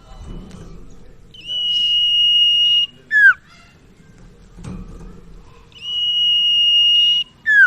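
Sirtu (cipaw) songbird singing: a long, level whistled note held for about a second and a half, then a short sharply falling note, repeated twice.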